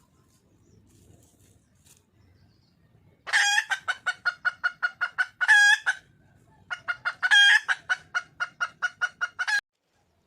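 Junglefowl hen calling for a mate: two bouts of rapid clucks, about six a second, each with a longer drawn-out note in the middle, starting about three seconds in.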